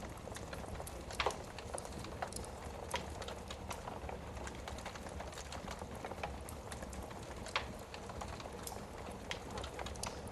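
Wood fire crackling in a fireplace: irregular small snaps, with two louder pops, one about a second in and one near the end, over a low steady rumble.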